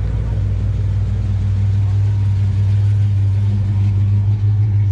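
Lamborghini Gallardo's V10 engine running at low speed, a steady low drone that grows slightly louder about three seconds in.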